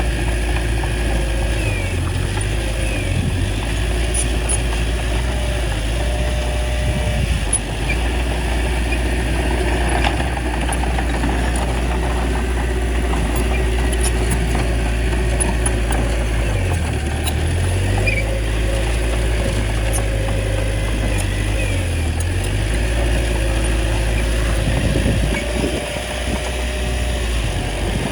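Small bulldozer's diesel engine running steadily under work, its low note shifting briefly a few times as the load changes.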